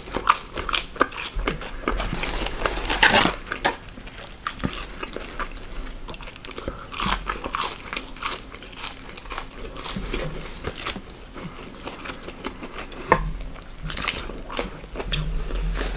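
Close-miked eating sounds: a person biting into and chewing crunchy fast food, with many crisp crunches scattered throughout and a louder cluster about three seconds in.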